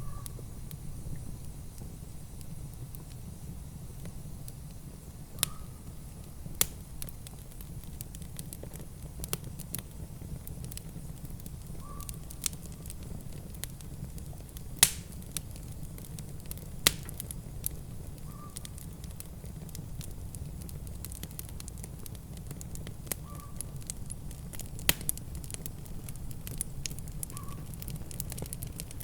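Wood fire crackling in a fireplace, with sharp pops scattered at irregular intervals, the loudest about fifteen seconds in, over a steady low rumble.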